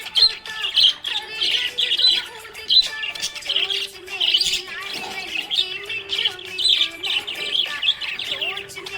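Budgerigar chattering in a continuous stream of quick chirps and warbles, with the odd squawk.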